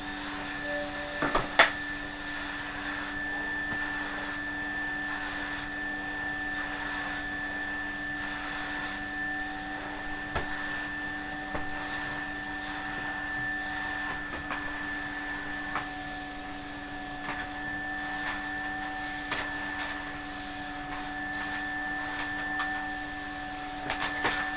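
Numatic Hetty tub vacuum cleaner running steadily on its low setting, a constant hum with a high motor whine, while the floor tool knocks lightly now and then, the sharpest knock about one and a half seconds in.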